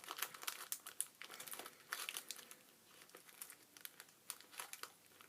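Plastic wrapper of a Pocky snack box crinkling and crackling in irregular bursts as it is pulled and torn open by hand, busier in the first couple of seconds.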